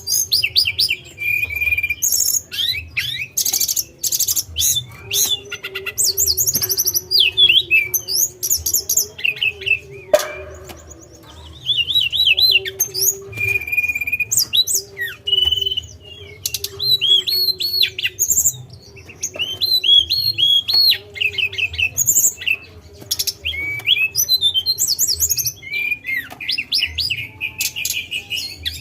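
Tledekan songbird singing: a busy run of high chirps, short whistles and rapid trilled phrases with hardly a pause. A faint steady hum sits underneath.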